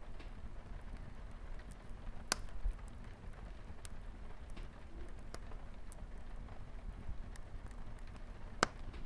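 Wood fire crackling in a fireplace, with scattered sharp pops, two of them louder about two seconds in and near the end, over a steady low rush of light rain on a window.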